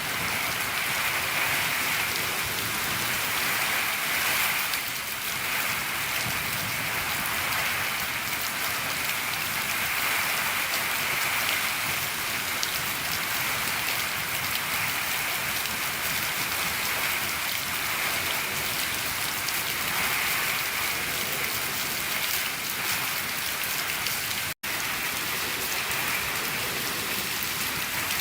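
Steady rain falling on a shed roof, a dense even patter. It cuts out for a split second about three-quarters of the way through.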